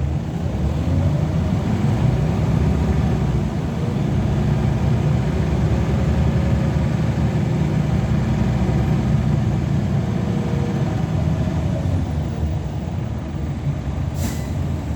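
Scania L94UB single-decker bus running on the road, its diesel engine giving a steady low rumble that rises and falls gently in pitch. A short sharp click comes near the end.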